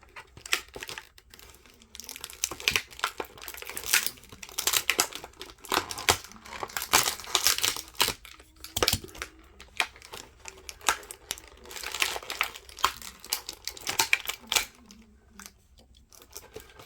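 Plastic and cardboard toy packaging being handled and pulled apart, crinkling and rustling in irregular bursts with sharp clicks and snaps.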